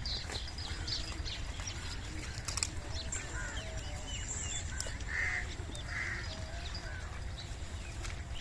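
Animal calls: scattered short chirps and two harsh calls about five and six seconds in, over a steady low rumble.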